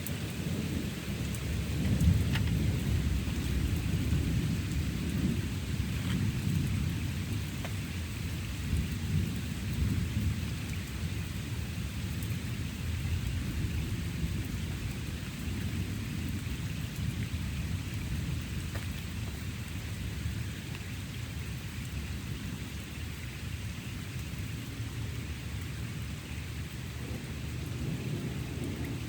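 Thunder rumbling on and off over steady rain, with its loudest crack about two seconds in, easing off in the second half.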